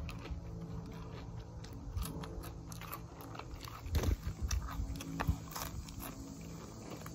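A person chewing and biting food close to the microphone, with many short crunches, over a steady low hum.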